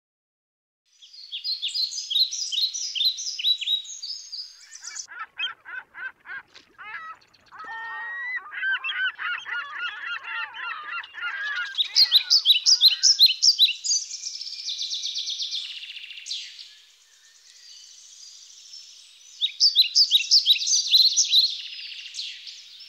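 Birds calling: series of quick, high, repeated chirps, with a denser chorus of lower-pitched calls in the middle stretch, starting about a second in.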